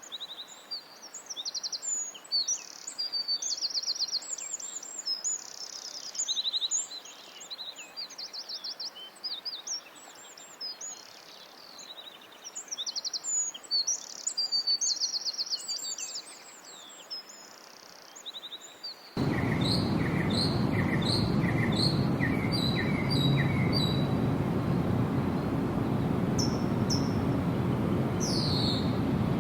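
Several songbirds chirping and trilling in high, rapid phrases over a quiet background. About two-thirds of the way through, the sound cuts abruptly to a steady rushing background noise with a bird repeating a short note about twice a second, and a few sweeping calls near the end.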